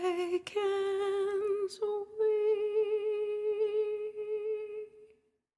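A woman's unaccompanied voice holding the song's closing notes with vibrato: two short notes, then a final long note of about three seconds that fades out about five seconds in.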